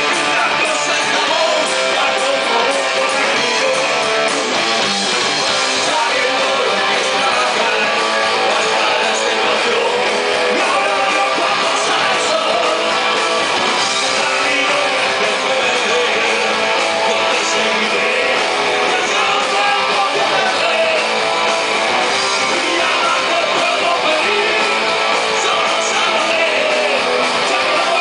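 A rock band playing live, with guitar to the fore at a steady, full level.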